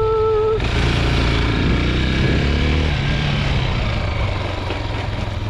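Chinese 250 dirt bike's engine running under throttle while riding, revving up for a moment about two seconds in. A steady high tone cuts off about half a second in.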